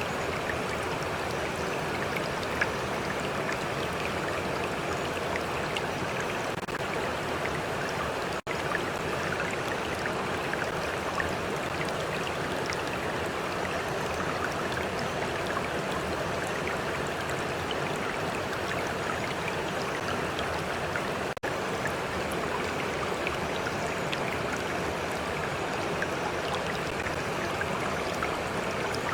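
Stream flowing steadily, water rushing and lapping with small splashing droplets, cut out for an instant twice.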